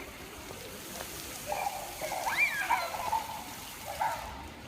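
Fountain water splashing steadily, with a child's high voice squealing up and down in pitch about two seconds in.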